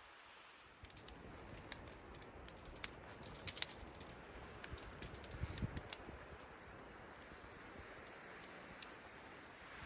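Irregular light clicks and ticks, most of them in the first half, over a faint steady hiss.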